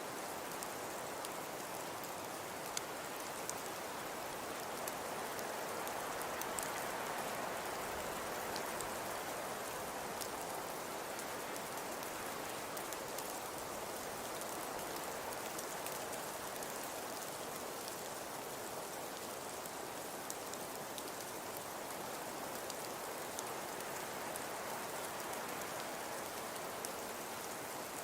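Wood fire crackling in a fireplace: a steady soft hiss with scattered small snaps and pops.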